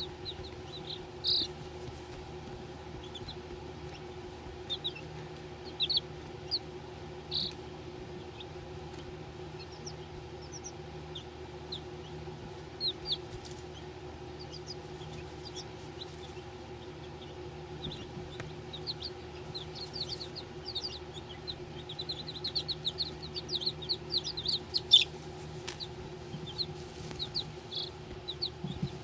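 Baby chicken chicks peeping: short high chirps scattered at first, coming in quicker runs in the second half, over a steady low hum.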